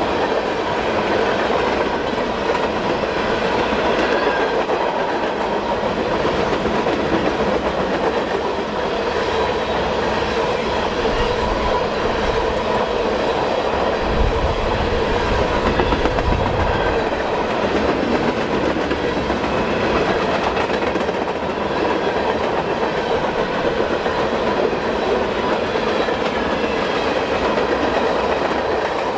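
CSX freight train cars rolling past at track speed, a steady clatter of wheels over the rails with a thin ringing tone running through it.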